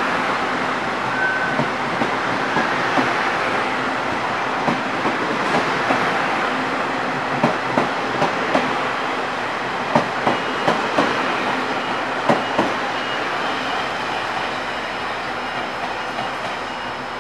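Taiwan Railways Chu-Kuang Express passenger coaches passing at speed: a steady rumble of wheels on rail with clickety-clack knocks in quick groups as the wheelsets cross rail joints. The sound eases off near the end as the last coach draws away.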